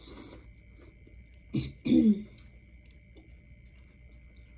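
A woman clearing her throat, two loud rough bursts close together about a second and a half in, after a short hiss at the start.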